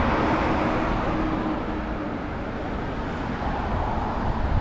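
Steady rush of wind and road noise on a camera microphone riding along on a Super73 electric bike, with uneven low buffeting and a faint steady hum in the first couple of seconds.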